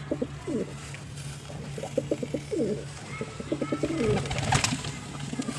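Pigeon cooing in several short bouts of quick low pulses and falling notes. There is a brief noisy burst about four and a half seconds in.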